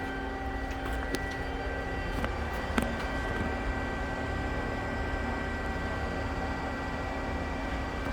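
Hydraulic pump and 7.5 hp electric motor of an Amada RG-80 press brake running steadily with a low hum and a few fixed tones, broken by a few sharp clicks, one about a second in and a louder one near three seconds.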